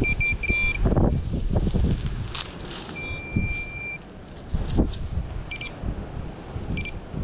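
Metal detector beeping at one fixed high pitch: a quick run of short beeps, one held tone of about a second, then a few more short beeps as it sweeps over a target that turns out to be a quarter. Wind rumbles on the microphone throughout.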